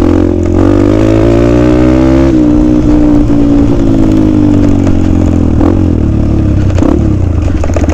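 Dirt bike engine running hard under throttle, its pitch climbing for about two seconds, then dropping and sinking slowly as the revs come down. Near the end it slows to a low, pulsing beat at low revs.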